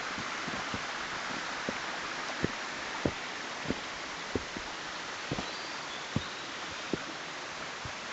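A steady rushing outdoor noise with soft, irregular thumps about once or twice a second.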